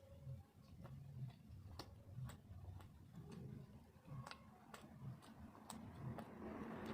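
Close-miked eating sounds: faint, irregular wet clicks and smacks of chewing soft rice cake with curry.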